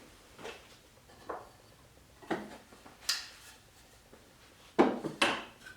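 A series of wooden knocks and clunks from handling the nail gun and a piece of 2x4 lumber, with the two loudest sharp hits close together near the end.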